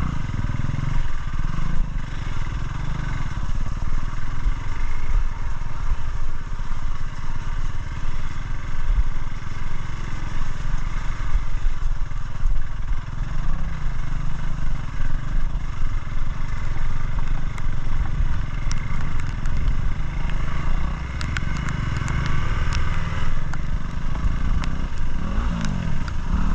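Single-cylinder dual-sport motorcycle running along an off-road trail, its engine note steady, with wind and ground noise over it. There are a few sharp clicks about two-thirds of the way through, and the revs rise briefly near the end.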